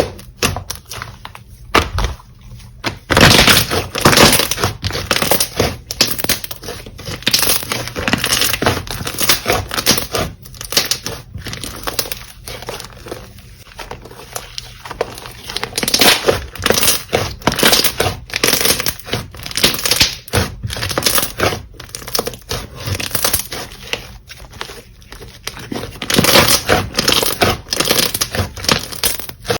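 Slime being squeezed and pressed by hand, making a dense run of crackles and pops. The first three seconds hold only a few separate clicks, then the crackling becomes near-continuous.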